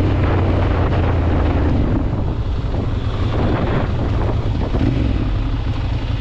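Ducati Monster 796's air-cooled L-twin engine running steadily while the bike rides along, with wind buffeting the microphone.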